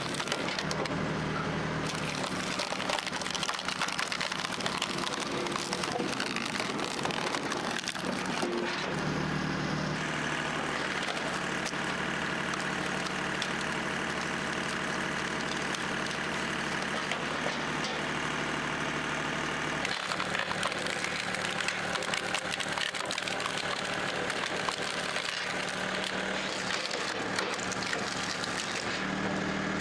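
Engine of a hydraulic log splitter running steadily, with a clattering machine texture over it. The tone changes abruptly about 2, 10 and 20 seconds in.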